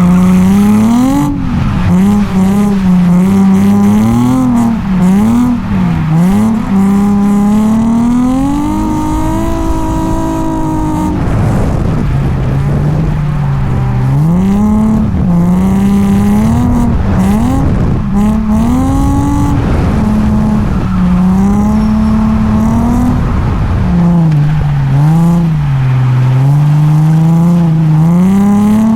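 Drift car's engine revving hard during a drift, its pitch constantly climbing and falling as the throttle is worked. The revs drop sharply about eleven seconds in before climbing again.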